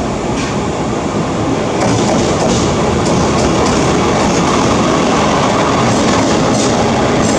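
Taiwan Railways R166 diesel-electric locomotive hauling a freight train past at close range, its engine running and the wheels rumbling on the rails, getting louder about two seconds in as it draws level. Scattered clicks of the wheels over the rail joints.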